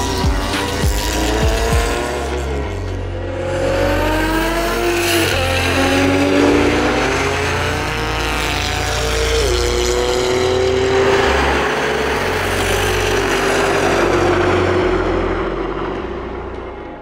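A car engine accelerating hard, its note rising steadily, dropping once about halfway through as it shifts gear, then rising again before fading near the end. A few sharp pops in the first couple of seconds, with background music underneath.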